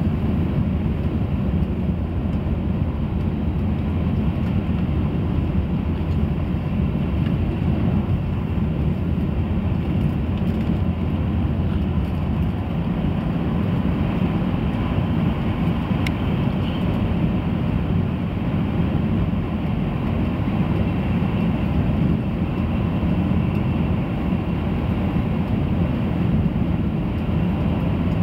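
Steady low rumble inside an E3 series Shinkansen car running at speed: wheels on rail and running noise heard through the carriage. A single faint click about sixteen seconds in.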